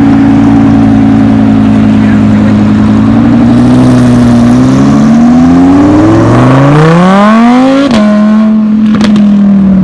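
A car engine running loud and steady, then climbing in pitch for about three seconds as it pulls. About eight seconds in it drops sharply to a lower steady note, which then fades.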